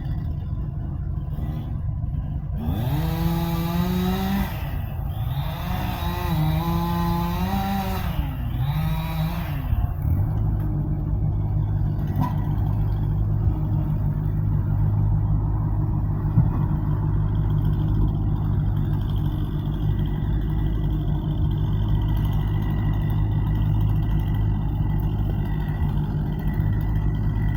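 An engine running, revved up and down several times in the first ten seconds, then settling into a steady low drone.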